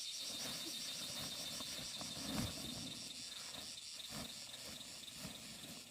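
An insect chirping in a rapid, even, high-pitched pulse, about six chirps a second, fading out a little past halfway, over soft rustling with a dull thump about two and a half seconds in.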